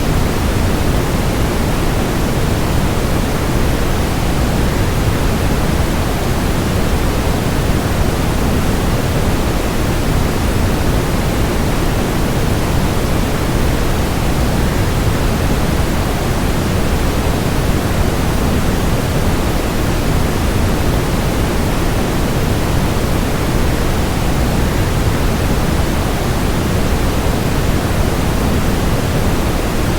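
Waterfall mixed with white noise: a steady, unbroken rush, deepest in the low end, with no changes.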